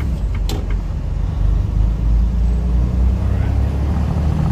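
Tractor-trailer's diesel engine pulling hard as the truck drives out through a left turn, heard from inside the cab as a steady low rumble, with a single sharp click about half a second in.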